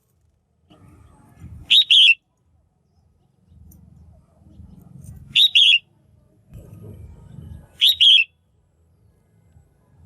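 Female red-whiskered bulbul calling: three short, loud chirps, each two or three quick notes, about a second in, past the middle and near the end, with a faint low rumble between them.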